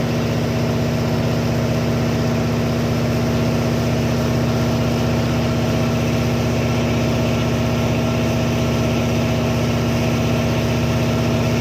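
A boat's inboard engine running steadily at an unchanging speed, a constant hum over a low rumble.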